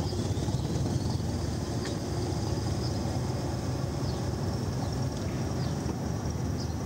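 Passenger train coaches rolling slowly past: a steady low rumble of wheels on rails with a few faint clicks.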